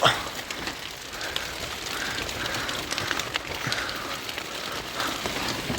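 Storm wind and rain on a tent's fabric: a steady rush with many small crackles and taps.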